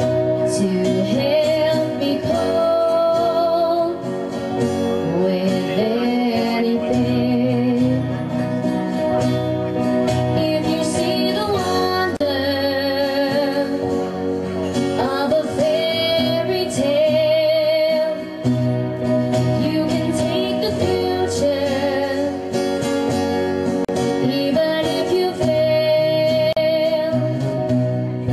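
A woman singing with vibrato over an instrumental backing track.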